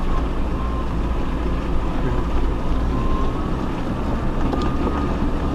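Off-road 4x4 vehicle driving on a rough dirt track: a steady low rumble of the engine and rolling tyres.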